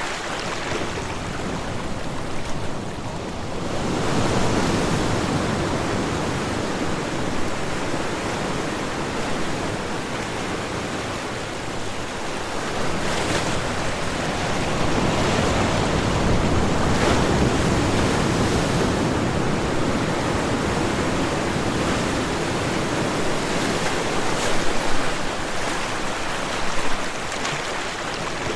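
Ocean waves breaking and washing on a shore, a steady surf wash that swells and falls slowly as waves come in.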